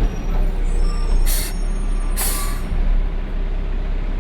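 Peterbilt 520 garbage truck's engine running steadily, with two short hisses of compressed air, about a second and two seconds in, from the truck's air system.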